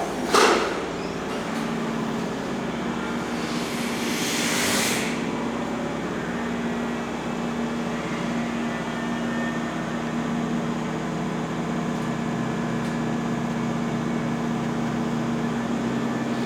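Hankyu electric train standing at the platform, its onboard equipment giving a steady hum with one held tone. There is a short knock just after the start and a brief rush of noise about four seconds in.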